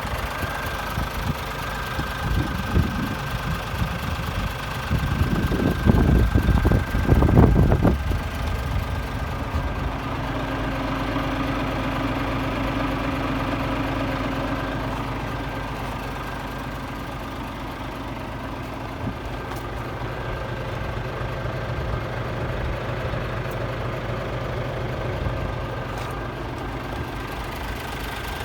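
Scania S500 tractor unit's 13-litre straight-six diesel idling steadily, with a few seconds of louder, uneven low rumbling about a fifth of the way in.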